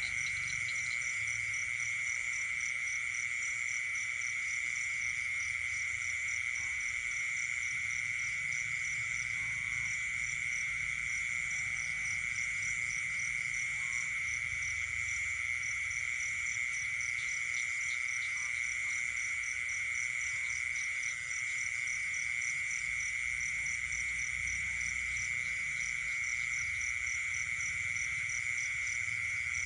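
Night chorus of frogs and insects calling together: a steady, unbroken high drone, with a rapid, evenly pulsing trill higher still and a few faint scattered calls beneath.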